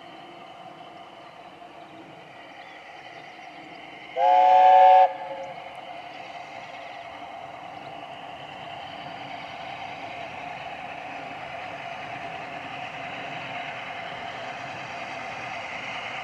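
Steam locomotive chime whistle, several notes sounding together, gives one short blast about four seconds in, the loudest sound here. It sits over steady running-train noise that grows slowly louder. The locomotive is LNER A4 Pacific 60007 Sir Nigel Gresley.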